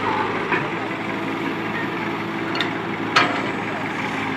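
Mahindra diesel tractor engine running steadily, with a few short clicks over it, the sharpest about three seconds in.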